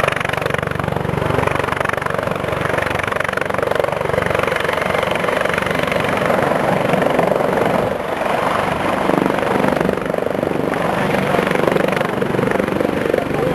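Loud, steady engine noise with a dense rushing quality and no pauses.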